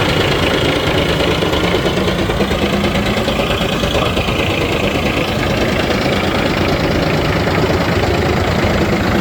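Jenz HEM 561 wood chipper running, a loud, steady engine and machine drone that holds even throughout.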